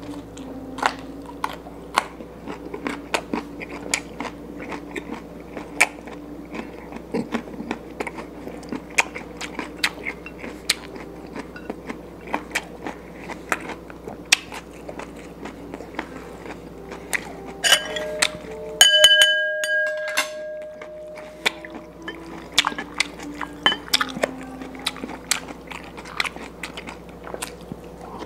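A person chewing fried fish and rice eaten by hand, with many small wet mouth clicks and smacks. About two-thirds through, one sharp clink rings briefly, the loudest sound here.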